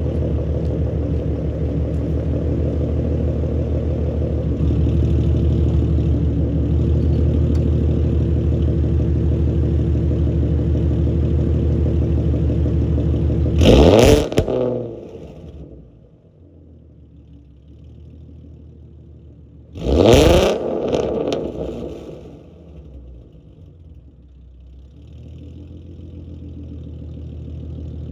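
Ford Mustang V6 with long-tube headers, a catted X-pipe and a Roush axle-back exhaust, idling steadily and loudly at first. It is then blipped twice, sharply, about halfway through and again some six seconds later. Each rev falls quickly back to a quieter idle.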